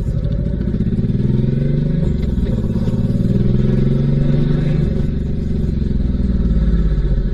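Honda VTX1800C's big V-twin engine pulling away under throttle, its pitch rising and dipping twice as it goes up through the gears.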